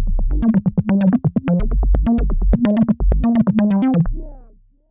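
Behringer System 100 analog modular synthesizer playing a fast sequenced acid bass line: rapid short plucky notes with bright filter snaps over a deep low bass note. It fades out over the last second.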